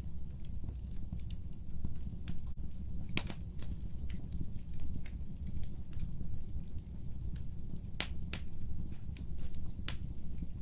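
Fire burning with a low steady rumble under scattered sharp crackles and pops. The loudest pops come about three seconds in and twice around eight seconds.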